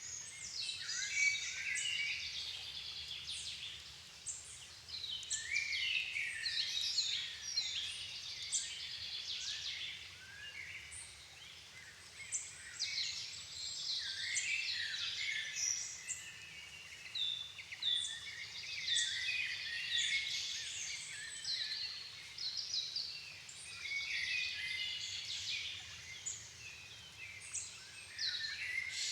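Dusk chorus of many songbirds singing at once, with quick chirps, trills and sliding whistled phrases overlapping without a break.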